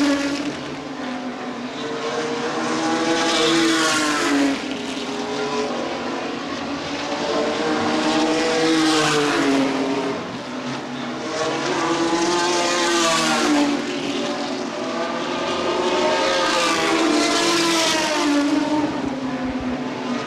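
Racing trucks running at speed around a short oval track, engines near full throttle. The sound swells and fades every few seconds as trucks pass, their engine pitch dropping as each goes by.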